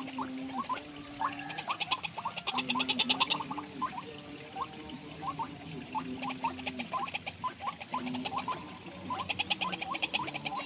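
A chorus of frogs in a rice paddy, several kinds calling at once: many short rising chirps, bouts of fast rattling trills, and low drawn-out croaks.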